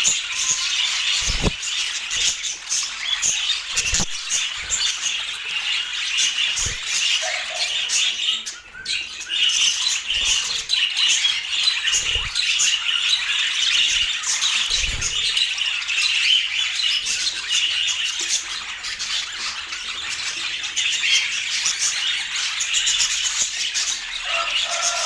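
Budgerigars chattering and squawking continuously, with dense overlapping short calls and a brief lull about eight seconds in. A few dull low thuds sound among the calls.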